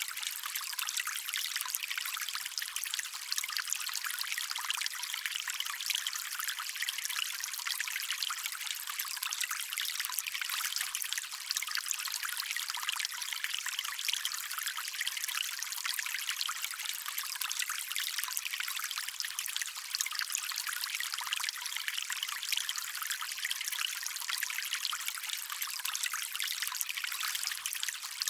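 Shallow stream water trickling and splashing over stones in a steady, unbroken rush, with no low rumble beneath it.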